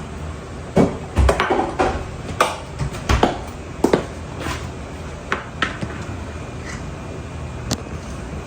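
Dishes and utensils being handled: a quick run of clinks and knocks in the first few seconds, then a few scattered clinks.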